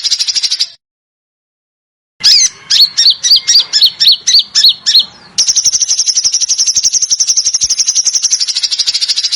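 Recorded songbird calls: a high rapid trill that stops abruptly, then after a short silence a quick series of about ten sharp down-slurred whistled notes, followed by another long high rapid trill.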